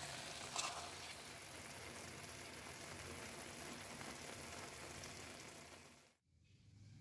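Tomato and egg mixture frying in butter in a pan, a steady sizzle, with a short clink of the stirring fork about half a second in. The sizzle fades out about six seconds in.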